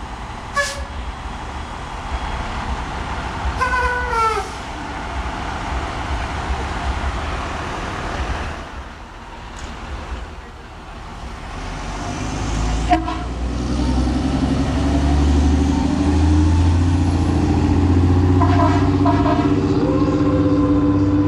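Fire truck responding: short horn blasts with a slightly falling pitch, then its heavy engine rumble growing loud as it comes close, with more horn blasts near the end.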